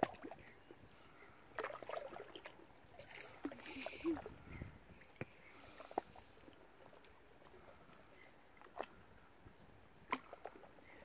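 Faint small splashes and sloshing of water, broken by scattered sharp clicks.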